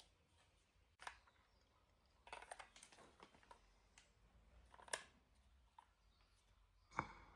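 Faint handling noises from unboxing a DJI Mic Mini wireless microphone kit: scattered clicks and light rustles of the small parts and packaging. The sharpest clicks come about five and seven seconds in.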